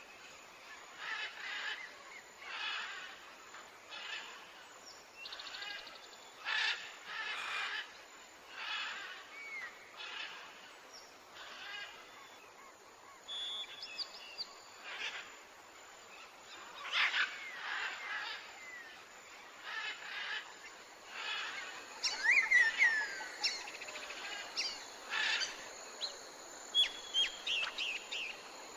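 Wild birds calling: short rasping calls repeating about once a second, joined by thin whistled chirps and quick glides that grow busier in the last third.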